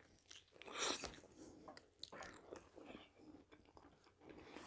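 Faint close-miked chewing of a soft zucchini fritter: quiet, wet mouth sounds, with one brief louder noise about a second in.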